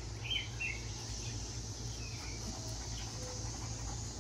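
Birds chirping outdoors: a few short falling calls about half a second in and again around two seconds, over a steady high hiss and a low hum.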